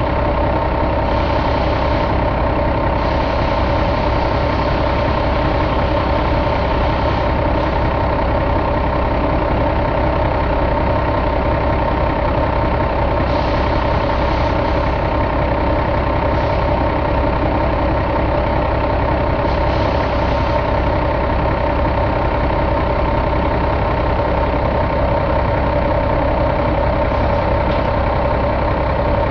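2005 Cummins ISX inline-six diesel engine idling steadily, with a few short bursts of hiss over the running engine.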